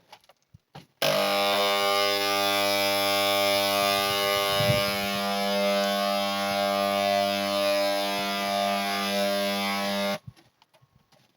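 Handheld electric paint sprayer running with a steady, loud buzz and hiss, started about a second in and cut off suddenly some nine seconds later; its paint supply is nearly out.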